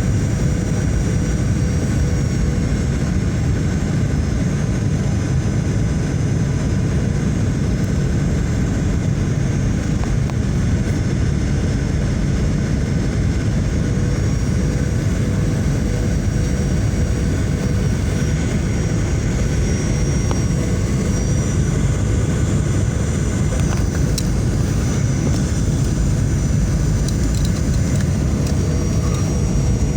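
Steady cabin noise of a passenger airliner in flight, heard from inside the cabin: a constant deep rush of engines and airflow with a faint steady hum and a thin high whine.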